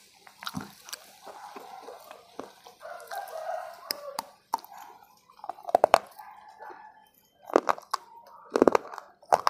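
A person eating: chewing with wet lip smacks and sharp mouth clicks, several loud smacks in the second half.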